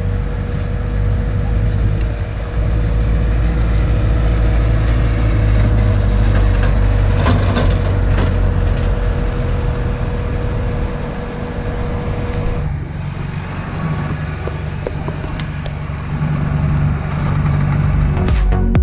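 Massey Ferguson 5455 tractor's diesel engine running steadily while pulling a Mascar six-row maize planter. The sound changes abruptly about two-thirds of the way through, with a different, lower engine note after the change.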